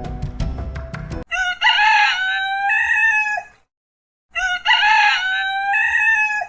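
Rooster crowing twice, each crow a long call of about two seconds with a short pause between.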